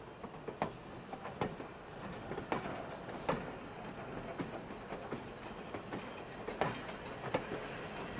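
Slow-moving train of flatcars and a wooden caboose rolling past, its wheels clicking and knocking over the rail joints at irregular intervals, roughly one click every half second to a second.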